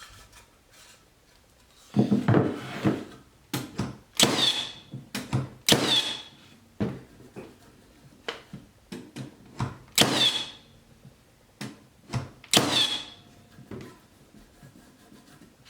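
Milwaukee M18 Fuel 15-gauge cordless finish nailer firing 2.5-inch nails into stacked 2x4s, driving them fully home. There are four sharp shots a few seconds apart, each with a short metallic ring, plus a heavier knock about two seconds in and lighter clicks and knocks of handling between.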